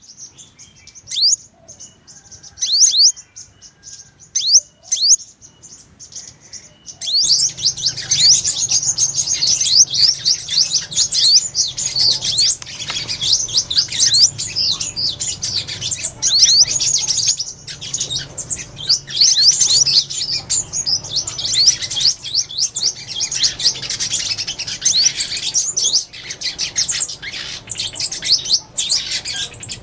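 Sunbird calling: a few separate sharp, high chirps, then from about seven seconds in a dense, rapid high twittering song that runs on without a break.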